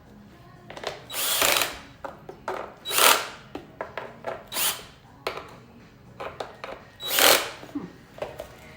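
Power drill/driver run in four short bursts of about half a second each, with smaller clicks between, driving screws in.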